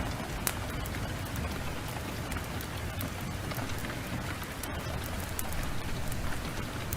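Heavy rain falling steadily, mixed with a wood fire whose scattered sharp crackles and pops come through now and then.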